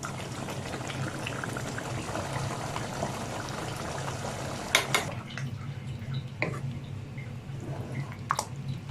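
Liquid bubbling in a cooking pot, with a few sharp clinks of utensils against pots and dishes, about five, six and a half and eight seconds in.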